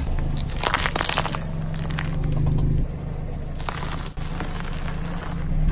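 Crackling and crunching of objects being crushed under a car tyre, in bursts about a second in and again past the middle.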